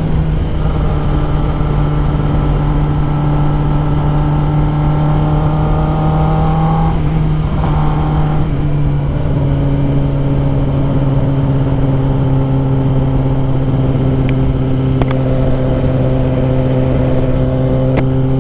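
Kawasaki ZX-10R inline-four engine running at a steady cruising speed, with wind rushing over the helmet microphone. The engine note eases slightly lower about eight or nine seconds in, then holds steady again.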